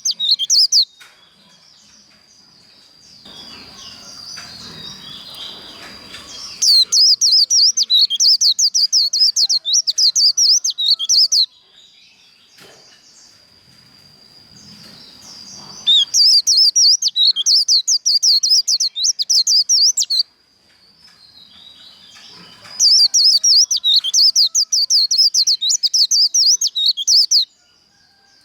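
White-eye (vành khuyên) singing its rapid, high 'líu' trill in three loud bouts of about four to five seconds each, with short pauses between them.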